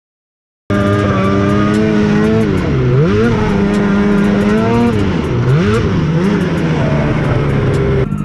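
Two-stroke snowmobile engine running at high revs, its pitch dropping and climbing back twice as the throttle is let off and reapplied, with sharp ticks scattered through it. It starts abruptly about a second in and cuts off abruptly just before the end.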